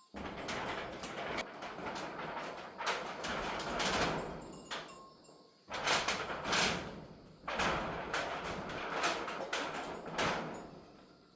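Storm wind and rain: a rushing noise that swells and eases several times, starting abruptly and cutting back in suddenly about six seconds in.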